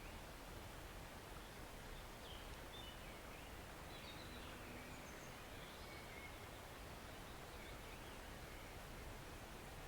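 Small forest stream running with a steady, quiet wash of water, with faint scattered birdsong in the middle of the stretch.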